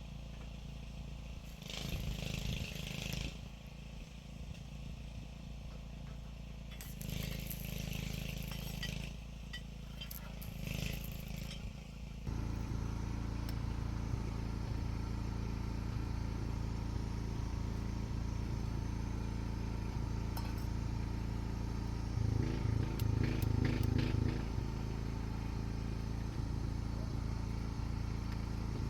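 Three short bursts of hissy, rasping noise, then about twelve seconds in the steady hum of a running engine comes in suddenly, with a stretch of rhythmic pulsing near the end.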